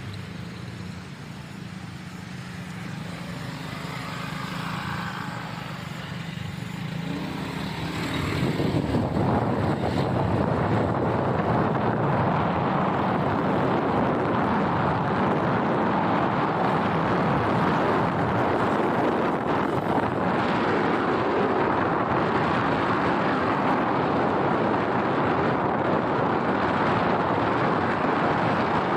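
Motorcycle ride. A steady low engine hum runs for about eight seconds, then a loud, even rush of wind and road noise takes over and holds.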